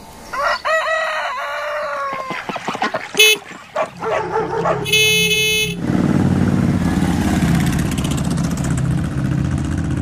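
A rooster crowing, then a vehicle horn: one short honk and a second, longer one. After that, motorbike engines running steadily as riders pass along the road.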